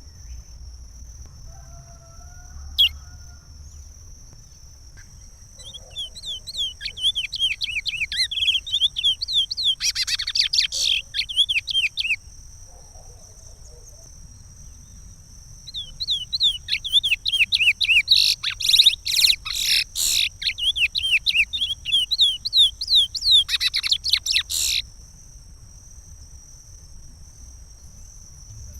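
Curió (chestnut-bellied seed-finch) singing the Pará regional song type: two long phrases of rapid, repeated downward-sweeping notes, the first about six seconds long and the second about nine, with a pause between them. A steady high tone runs underneath.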